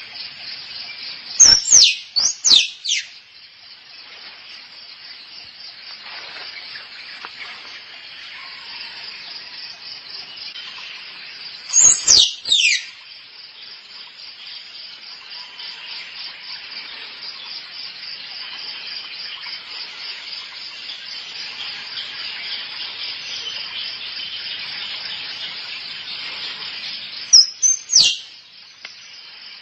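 Squirrel mating calls: three bouts of sharp, high calls, each call falling steeply in pitch, coming about ten and fifteen seconds apart, over a steady shrill insect chorus.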